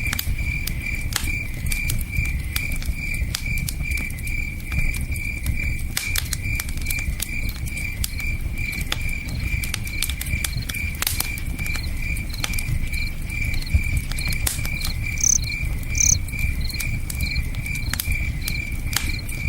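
Campfire crackling with scattered sharp pops, over a low steady rush of a river, while a cricket chirps steadily about three times a second.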